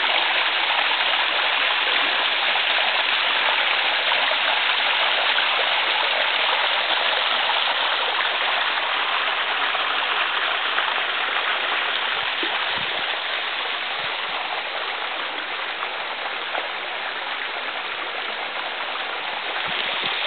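Small mountain waterfall splashing into a pool: a steady rush of falling water that eases slightly in the second half.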